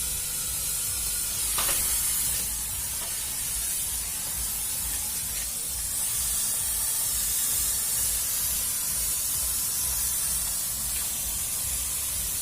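Thermal fogging machine running for mosquito fogging: a steady hiss over a low rumble, with no change in the running.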